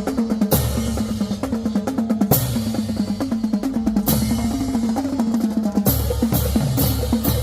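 Marching band drumline playing a cadence on snare and bass drums. Loud accented crashes land about every two seconds, then come faster near the end.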